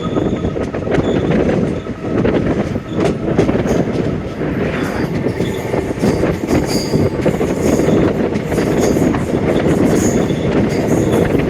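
Passenger train running on the track: a steady rumble of wheels on rail, with irregular clicks from the rail joints and short high-pitched wheel squeals that come more often from about four seconds in.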